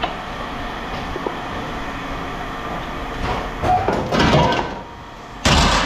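Steady machinery hum. From about three seconds in come irregular metallic rattling and scraping, then a short, loud crash near the end.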